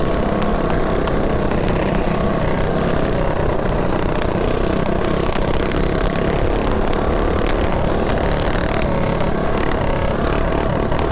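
Mini bike engine running at a steady speed while riding, with wind rushing over the helmet-mounted microphone.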